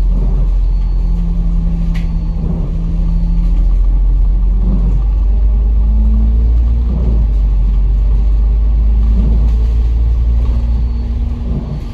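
Kowloon Motor Bus engine running under way, a steady low rumble with an engine tone that holds at one pitch, then steps higher and shifts as the bus changes speed. A short click about two seconds in.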